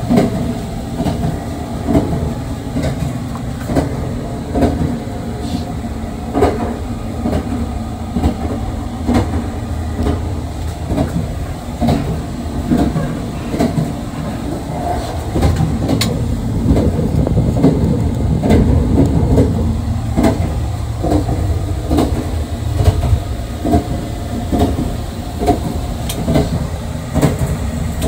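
Running noise inside a JR 681 series electric express train: a steady low rumble with frequent irregular clicks and knocks from the wheels on the track.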